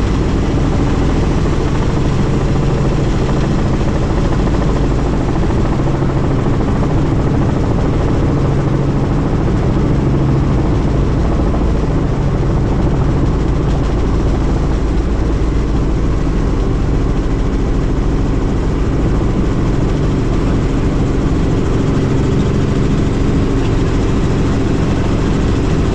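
Helicopter in flight: a steady, even drone of rotor and turbine engine with a low hum.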